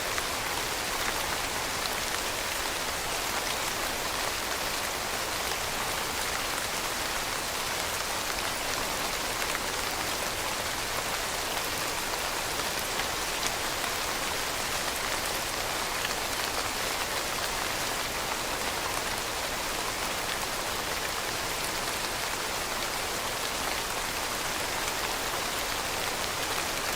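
Steady rain falling: a dense, even hiss with many small drop ticks, with no let-up or change in strength.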